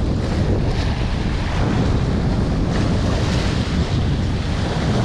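Strong wind buffeting the microphone in a steady roar, with the wash of water along the shore beneath it.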